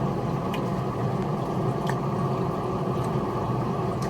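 Steady low rumbling noise, with a few faint clicks.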